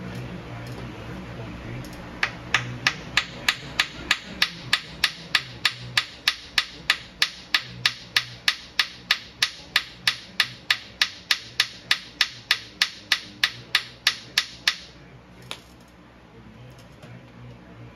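Hammer striking metal in a steady, even rhythm, about three blows a second for around twelve seconds, then stopping, with one lighter tap just after.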